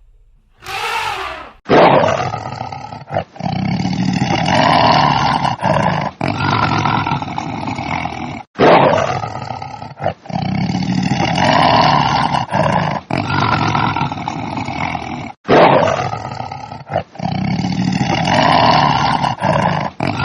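A large animal roaring: a sequence of loud roars that starts suddenly and runs on with short breaks. The same recording plays three times over, about every seven seconds.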